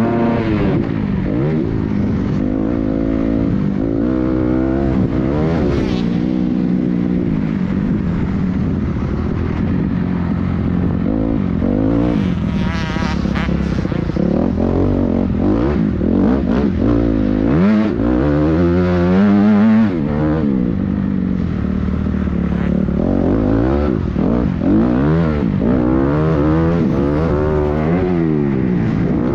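Motocross bike engine revving hard, its pitch rising and falling over and over as the rider works the throttle and shifts through the gears.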